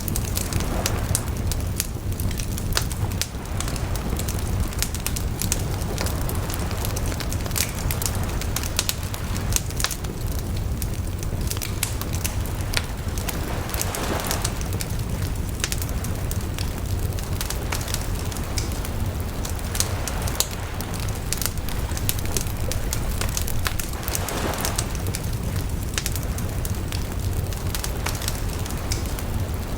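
Wood bonfire crackling, with frequent sharp pops and snaps over a steady low rumble.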